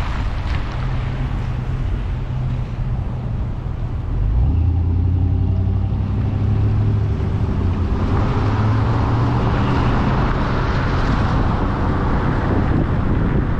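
A car engine and tyre road noise heard from a moving vehicle. The engine's low hum gets louder about four seconds in, and the tyre hiss grows after about eight seconds.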